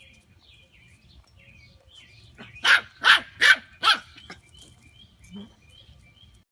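Four loud dog-like barks in quick succession, about two and a half seconds in, with faint short high chirps before and after them.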